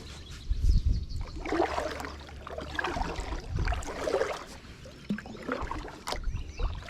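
Water splashing and trickling around a kayak, in uneven bursts, over a low rumble.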